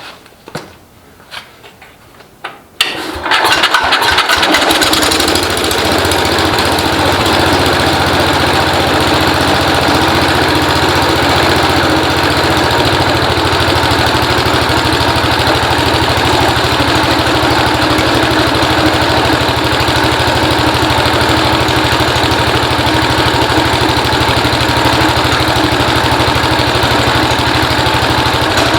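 Cub Cadet 127 garden tractor's single-cylinder Kohler engine firing up about three seconds in, after a few faint clicks, then running steadily. It is the engine's first start after sitting for years, helped along with choke and a squirt into the carburettor.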